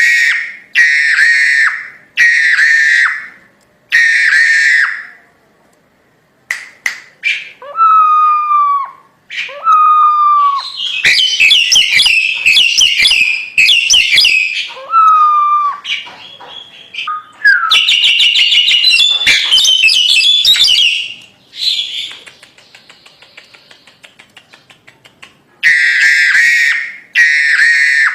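Crested myna (jalak hongkong) singing loudly in a varied, chattering song. It gives a few harsh repeated calls, then falling whistles, then long stretches of rapid chatter. About two-thirds of the way through comes a quieter run of fast clicks, and it ends on the harsh calls again.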